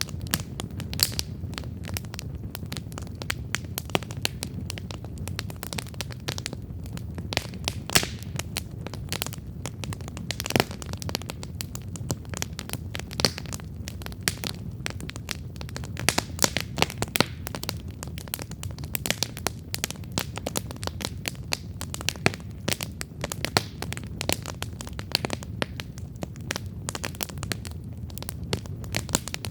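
Wood campfire burning with constant, irregular crackles and pops over a steady low rumble of the flames.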